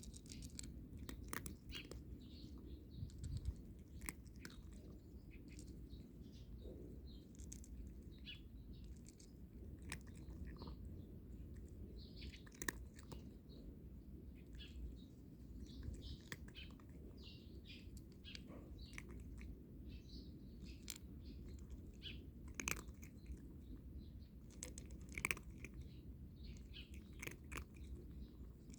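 A cat crunching and chewing dry kibble, with short, crisp crunches at an irregular pace.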